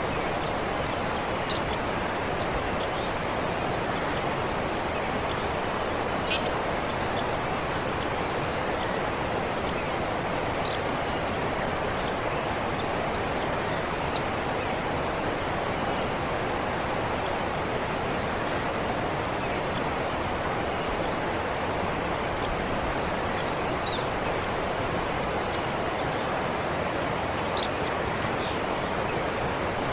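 A forest stream flowing with a steady rush of water, with birds chirping over it in short bursts of quick, high, falling chirps every few seconds.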